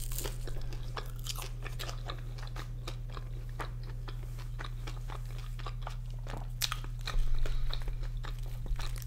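Close-miked chewing of a mouthful of loaded crinkle-cut fries with cheese and chicken, with many small wet mouth clicks. Near the end, a louder scrape and crinkle as a wooden fork digs into the foil-lined tray.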